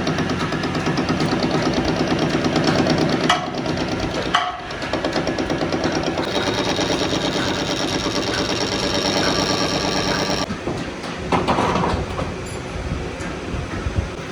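Workshop machinery running with a steady, rapid mechanical rhythm, broken by two sharp metal knocks about three and four and a half seconds in; the sound changes character about ten seconds in.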